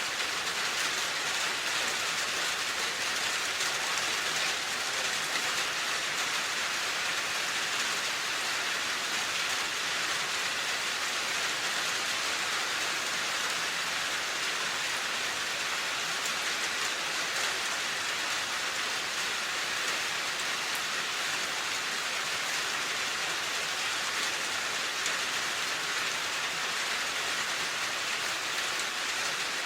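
Steady rain falling on a surface, an even, continuous hiss of dense drops with no letup.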